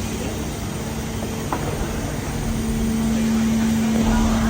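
Steady machinery hum from a ship's engines, a constant low drone with one held tone, getting slightly louder about two and a half seconds in.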